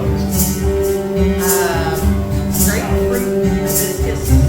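Live duo band performance: guitar and a singing voice over evenly spaced, tambourine-like percussion hits.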